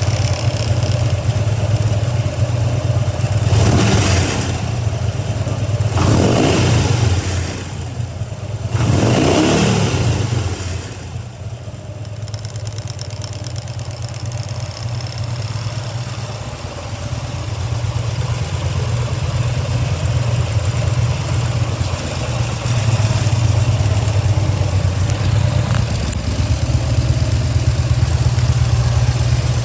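Harley-Davidson Dyna Street Bob's 1580 cc Twin Cam V-twin idling with a low, lumpy beat. It is blipped three times in the first ten seconds or so, each rev falling back to idle.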